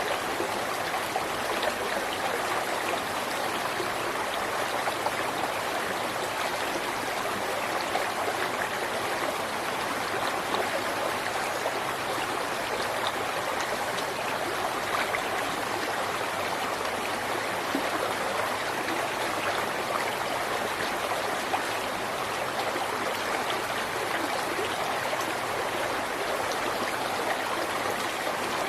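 River water flowing steadily over rocks, an unbroken rushing and babbling.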